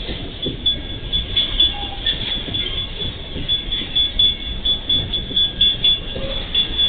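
Train rolling past: a low rumble with a regular clatter of wheels over the rail joints and a steady high-pitched wheel squeal.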